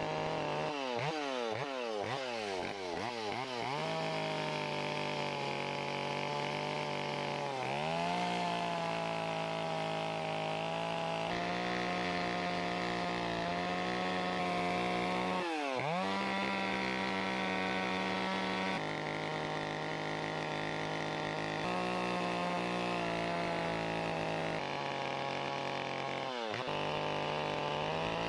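Chainsaw running at high revs while carving into a spruce block, its engine note steady for long stretches. In the first few seconds the revs rise and fall quickly several times, and three more times the note dips briefly and climbs back as the throttle is eased off and opened again.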